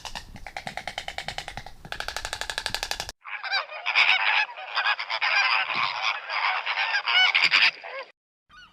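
A rapid pulsing, buzzing call for about three seconds, then a sudden cut to a flock of geese honking over one another, loud and dense. The honking stops abruptly shortly before the end.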